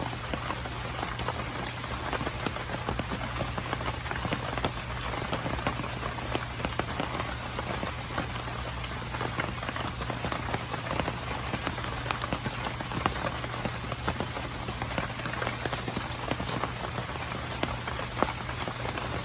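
Aerated water in a biofloc tank bubbling and splashing: a steady patter of many small drops over a continuous low hum.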